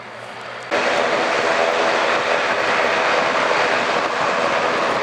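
Airliner engines running loud and steady close by, cutting in abruptly under a second in over a quieter hum.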